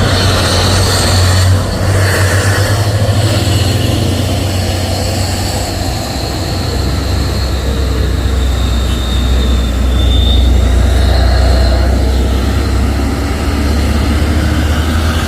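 Heavy truck's diesel engine running close by with a deep, steady drone; about six seconds in its note drops lower and stays there.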